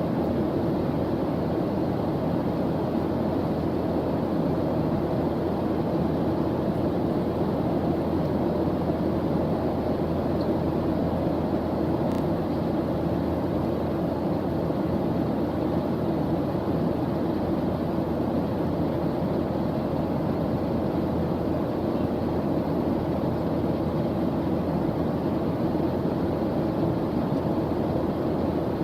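Steady white-noise background track: a constant, unchanging rushing hiss, weighted toward the low and middle pitches.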